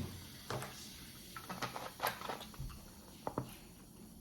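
Close-up mouth sounds of someone eating: irregular soft wet clicks and smacks from chewing food.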